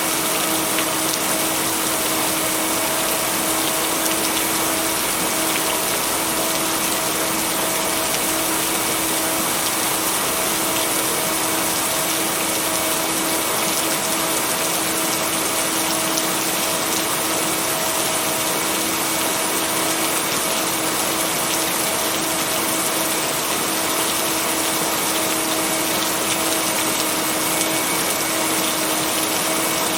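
Steady heavy rain, an even unbroken hiss with no thunder, mixed with a steady low tone, the binaural-beat layer blended into the track.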